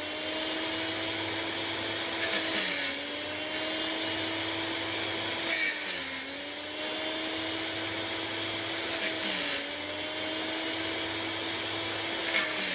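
Homemade band-sawmill blade sharpener running: the grinder motor hums steadily while the wheel grinds a tooth about every three seconds, four short high grinding bursts, the motor's pitch sagging slightly under each load.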